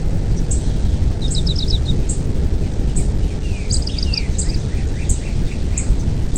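Birds chirping outdoors: scattered short high chips, two quick runs of rapid notes, and several falling notes. Underneath, a loud, steady low rumbling noise is the main sound.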